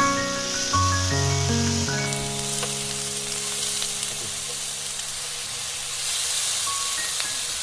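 Food sizzling and frying on a hot pan, a steady hiss under soft background music whose quick melody settles into held notes about two seconds in.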